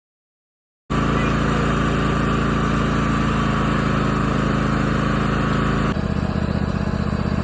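Silence for about the first second, then a small tractor's engine running steadily. Its note changes about six seconds in.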